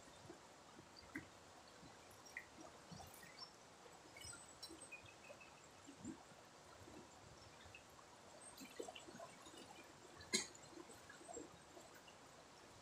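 Faint river water trickling, with scattered small drips and ticks and one sharper click about ten seconds in.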